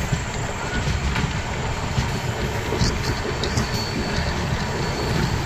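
Amrit Bharat Express train running: a steady rumble and rattle of the moving coach and wheels on the rails, with scattered clicks and a thin high whine in the second half.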